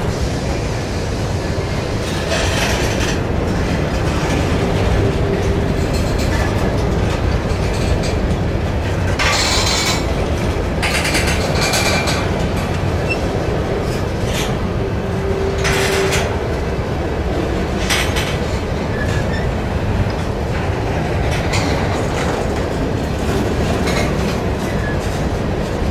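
Covered hopper cars of a freight grain train rolling past: a steady low rumble of steel wheels on rail, broken several times by short, high-pitched wheel screeches.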